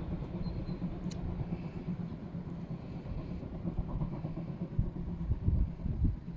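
Steam train hauled by DR class 50.35 locomotive 50 3516, heard as a steady low rumble.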